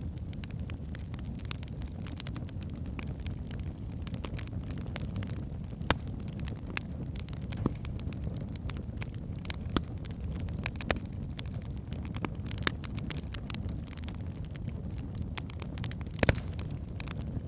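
Wood fire burning in a fireplace: a steady low rumble of the flames with frequent sharp crackles and pops from the burning logs, the loudest pops about six seconds in and near the end.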